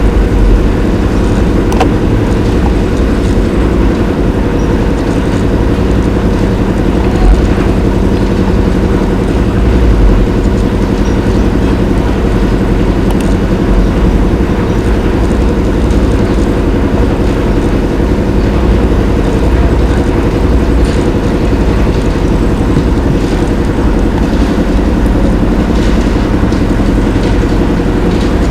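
Steady, loud low mechanical rumble.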